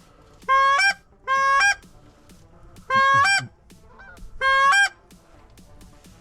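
Four loud two-note Canada goose honks, each breaking from a low note up to a higher one, spread over the first five seconds.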